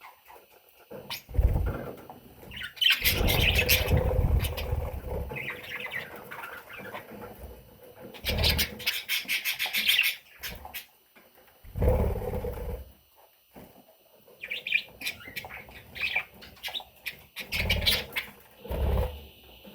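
Budgerigar chicks chirping in several bursts of rapid, raspy calls, with thumps and rustling of movement mixed in.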